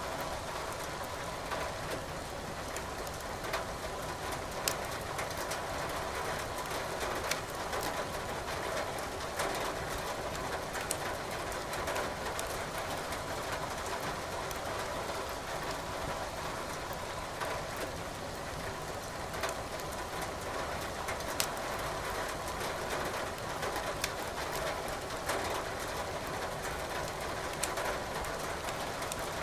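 Wood fire crackling in a fireplace, with sharp irregular pops over a steady hiss of rain.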